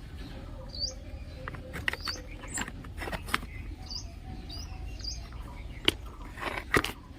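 Small birds chirping: about six short, high chirps spread through, each with an upward flick. A few sharp clicks or knocks come near the end, the loudest of them about six seconds in.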